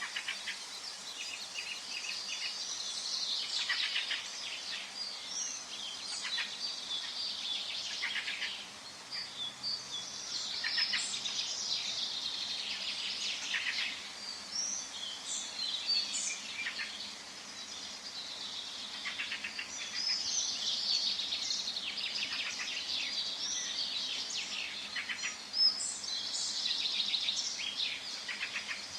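Forest bird chorus: several birds singing and calling at once, a dense run of quick overlapping chirps and trills with a few brief pauses.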